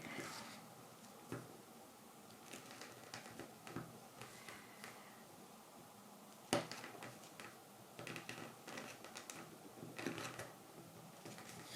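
Knife tip scoring fine straight lines into the wild cherry wood of a coffee scoop handle for kolrosing: faint, short scratching cuts, with a sharper click about six and a half seconds in.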